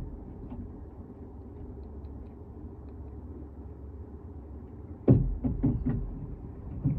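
A low steady rumble, then a sudden burst of four or five knocks about five seconds in, lasting about a second, the first the loudest.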